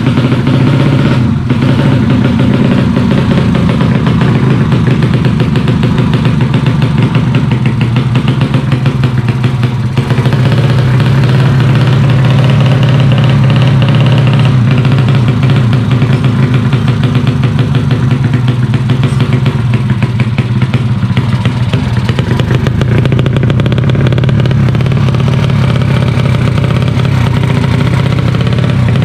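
A 130 cc motorcycle engine running loudly at a steady speed, its exhaust pulses rapid and even, with only slight rises and dips in pitch.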